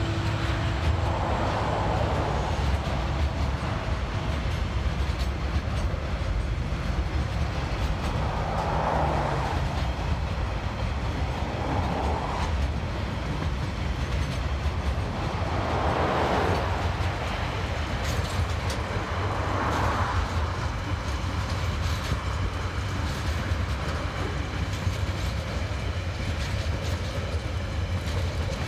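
Container freight wagons rolling past close by: a steady low rumble of steel wheels on the rails, with faint clicks as wheels pass over rail joints and a few brief swells of higher-pitched noise.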